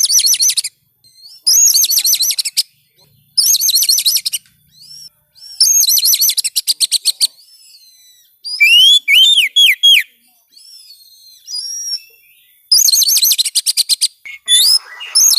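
Oriental magpie-robin song: repeated bursts, each about a second long, of rapid high chattering notes, with a run of falling whistled notes partway through.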